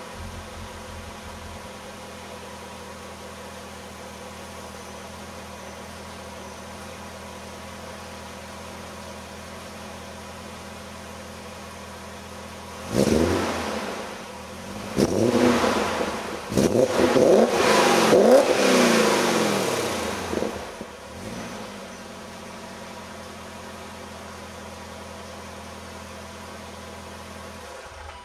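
2001 BMW E39 M5's V8 idling steadily through an Umnitza Twin-Pipe exhaust with stock headers and X-pipe. About halfway through it is revved once sharply, then several times in quick succession, each rev rising and falling, before it settles back to a steady idle.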